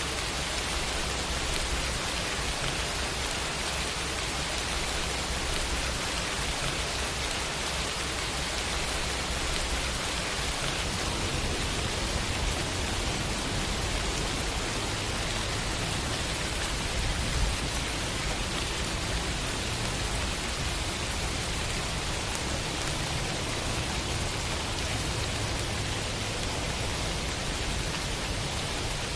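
Steady rain: an even, unbroken hiss, with a low rumble underneath.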